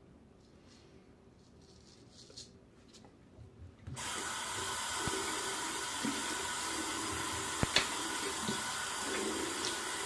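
A few faint short scrapes, as of a straight razor drawn over stubble. About four seconds in, a sink tap is turned on and runs steadily, water splashing into the basin, with one sharp click partway through.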